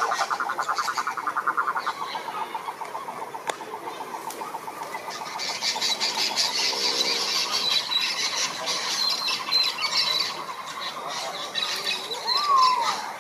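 Chorus of frogs calling at a pond: a fast, pulsing trill that is loudest for the first two seconds, then goes on more softly. A higher-pitched pulsing chorus joins about halfway through, and a short falling squeal sounds near the end.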